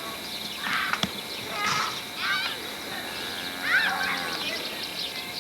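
Birds calling: a series of short chirping calls that rise and fall in pitch.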